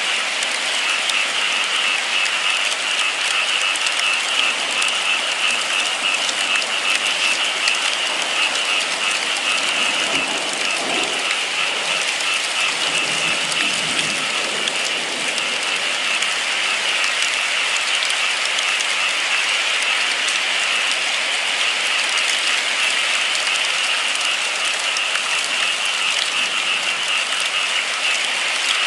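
Steady rainfall, an even hiss of many drops with a bright band in the upper-middle range. A faint low rumble comes through twice near the middle.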